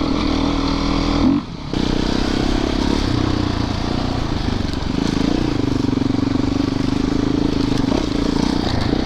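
Yamaha YZ450FX single-cylinder four-stroke dirt bike engine running steadily under throttle, with a short sharp drop in the sound about a second and a half in.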